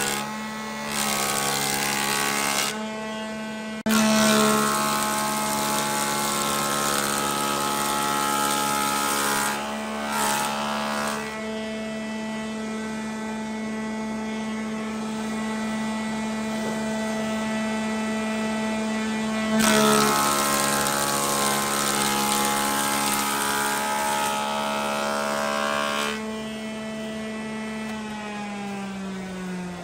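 Chainsaw held at high revs while cutting into a log. The rush of the chain through the wood comes and goes several times, and near the end the throttle is released and the pitch falls.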